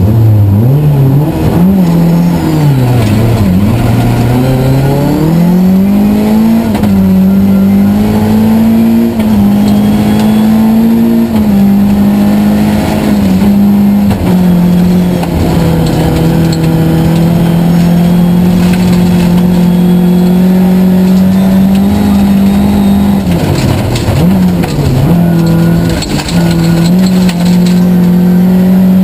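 Tuned two-wheel-drive Volvo 940 rally car's engine heard from inside the cabin, pulling away hard: the revs fall and rise through quick gear changes in the first few seconds, then are held high with short steps at each shift. About five seconds before the end the revs drop briefly and climb again.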